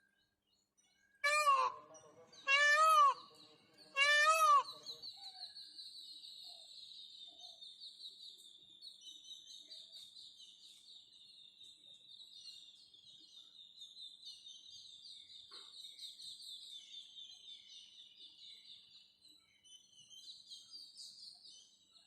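Indian peafowl calling three times: loud, short, arching wails about a second and a half apart. A rapid, high-pitched trill of chirps follows and keeps going, fainter.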